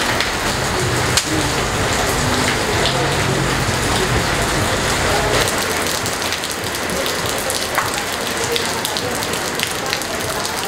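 Steady rain splashing into a plastic bucket of water and onto pebbled concrete ground, with a sharper drop hit now and then.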